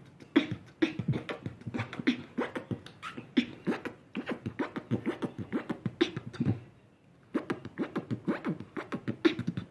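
Solo vocal beatboxing freestyle: fast rhythmic mouth-made kick, snare and hi-hat sounds, breaking off briefly about seven seconds in before picking up again.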